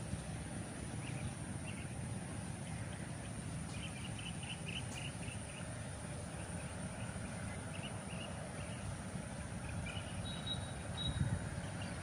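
A bird calls in short runs of quick, high chirps, several times over a low steady rumble.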